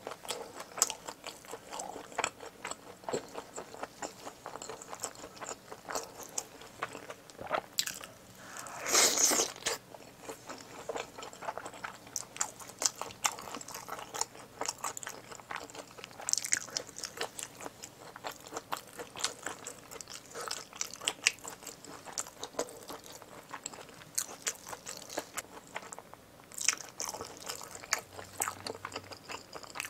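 Close-miked chewing of spicy braised pig's trotters, a steady run of small wet mouth clicks and smacks, with one louder burst of noise about nine seconds in.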